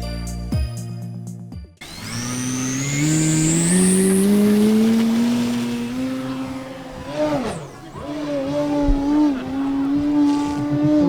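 Music for the first couple of seconds, then the electric motor and propeller of an Extra NG 60" Skywing RC aerobatic plane: a whine rising steadily in pitch for about four seconds, dropping sharply about two-thirds of the way through, then wavering up and down in pitch.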